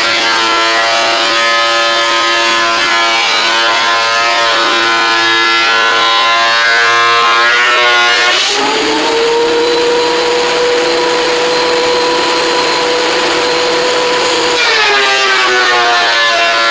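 A woodworking power tool's electric motor running steadily with a whine. About eight and a half seconds in, its sound abruptly changes to a single steady tone for about six seconds and then switches back, as when a board is fed through and leaves the cut.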